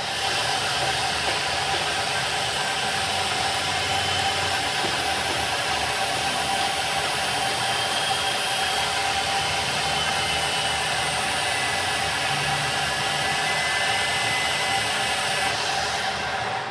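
Steady whirring hiss of a running machine, with a faint constant whine; it cuts in at once and drops away near the end.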